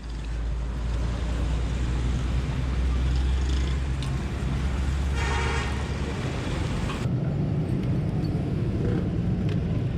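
Motorcycle riding through traffic, its engine running, with heavy wind buffeting on the microphone for the first six seconds or so. A horn sounds briefly about five seconds in.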